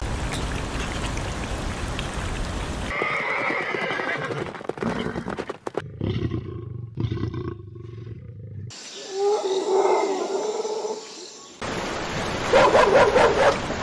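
A run of separate animal calls spliced one after another with abrupt cuts between them, after a few seconds of steady noisy hiss; the loudest call comes near the end.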